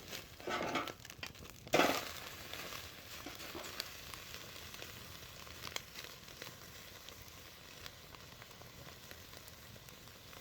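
Beef sirloin sizzling on a wire grill over a wood fire, with a sharp knock about two seconds in, then a faint steady sizzle with occasional small crackles.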